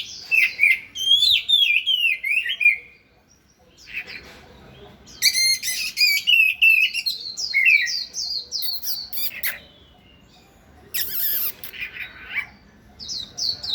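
Oriental magpie-robin singing in fast, varied phrases of chirps and whistled notes, broken by short pauses, with a harsh rasping note about eleven seconds in.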